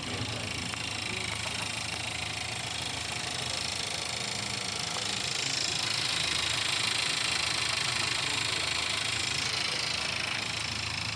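Volkswagen Golf engine running steadily, slightly louder for a few seconds in the middle.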